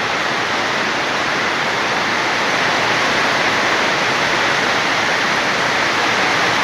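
Rain pouring down in a steady, even hiss.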